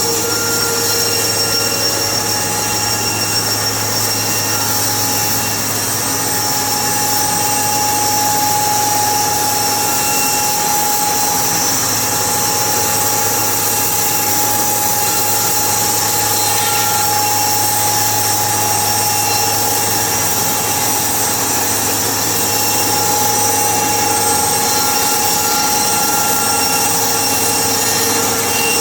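Sawmill machinery running steadily, a loud continuous mechanical noise with several steady whining tones.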